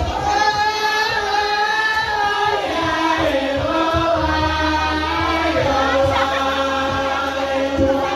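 Javanese gamelan music for a lengger dance: a solo vocal line sung in long held, wavering notes, over repeated low drum strokes.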